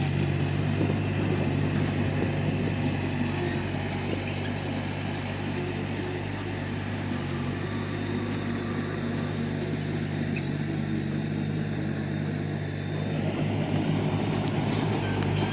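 Komatsu D31P bulldozer's diesel engine running steadily, growing louder and rougher about thirteen seconds in.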